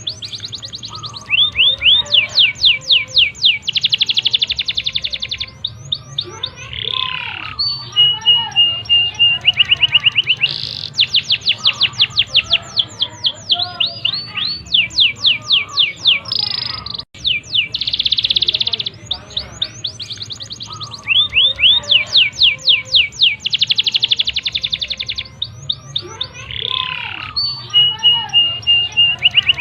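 A domestic canary sings a long, unbroken song of fast trills, made of rapidly repeated high notes, with buzzy rolls and now and then a held whistle note. The song breaks off for a moment about halfway through.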